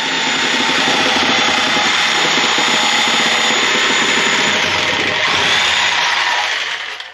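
A loud electric motor running steadily with a high whine, having spun up just before and winding down near the end.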